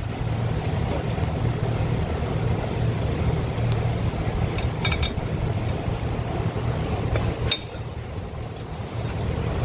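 A steady low hum with a few sharp metallic clinks, three of them, from hand tools and parts knocking against the car's shifter assembly during removal; the last clink is the loudest.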